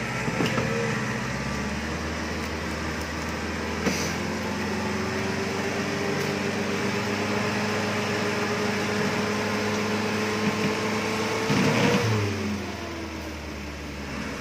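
Off-road 4x4's engine held at high revs under load on a steep dirt climb, its pitch creeping slowly upward, then dropping away near the end as the revs fall. A sharp knock comes about four seconds in, and a louder clatter comes just before the revs drop.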